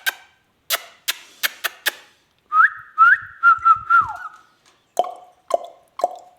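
Indian ringneck parrot making a run of sharp clicks, then whistling a held note broken by quick upward chirps, then giving a few short, clipped calls near the end.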